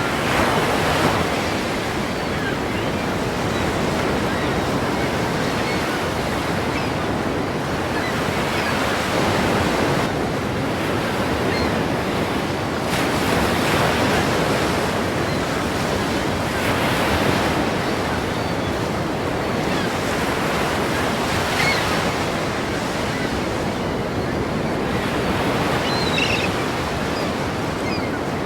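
Ocean waves breaking in a continuous wash of surf, swelling and easing every few seconds.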